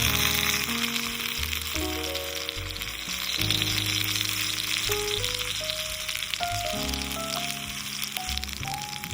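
Food frying in a pan, a steady crackling sizzle, with background music playing over it.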